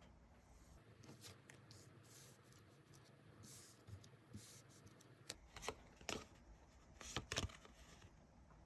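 Tarot cards being handled: a soft rustle of cards, then several sharp card snaps and taps a little past the middle.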